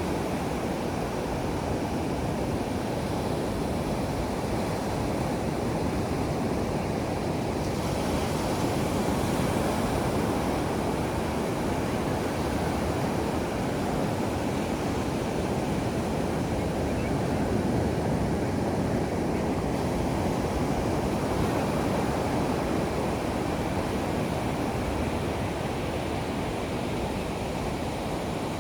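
Ocean surf breaking and washing up on a sandy beach, a steady rush of waves.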